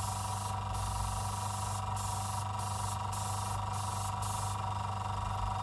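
Small airbrush air compressor running with a steady hum while the air gun attached to it hisses, the trigger pressed and released so the hiss breaks off briefly about every half second to a second.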